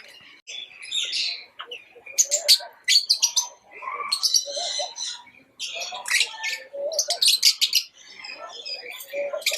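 Pet lovebirds chirping: rapid, sharp high chirps and short chattering trills in bursts, with brief pauses between.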